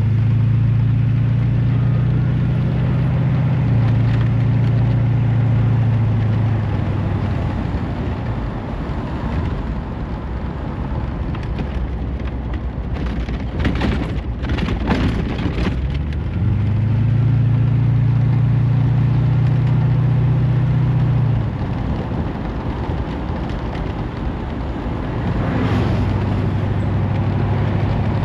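Ford 460 V8 running as the car is driven: the engine note swells for several seconds at a time and eases off in between, with a cluster of knocks about halfway through.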